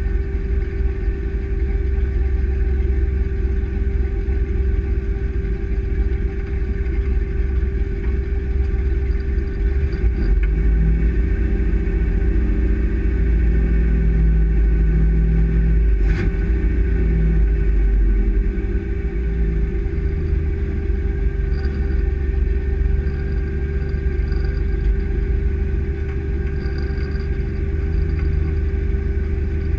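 Truck engine and road noise heard from inside the cab while driving: a steady low rumble with a constant hum, the engine note rising for a while around the middle. A single sharp click about halfway through.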